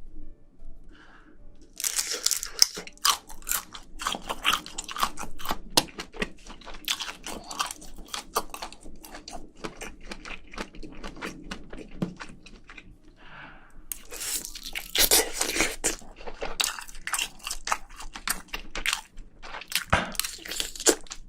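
Close-miked eating sounds: a person biting and chewing crunchy food in rapid, crackly crunches. The crunching starts about two seconds in, pauses briefly about two-thirds of the way through, then resumes.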